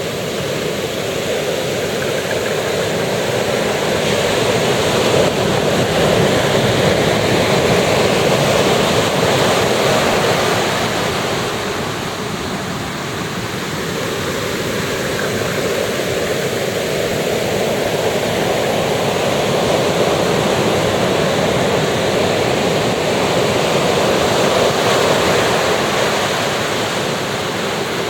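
Sea surf washing onto a beach in a steady rush, swelling and easing twice as the waves break.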